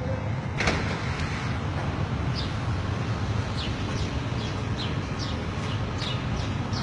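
Small birds chirping: short, falling high chirps repeated every half second or so from about two seconds in. Underneath is a steady low rumble, and there is one sharp click about half a second in.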